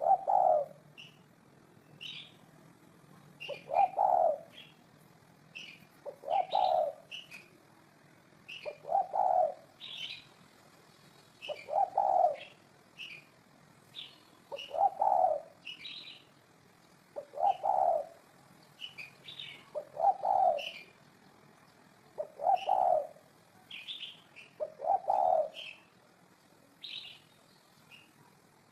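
A spotted dove cooing, its call repeated about every two and a half seconds, about ten times. Small birds chirp high and briefly between the coos.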